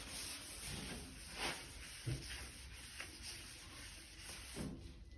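Faint rubbing and a few scattered light knocks from tools and the panel being handled.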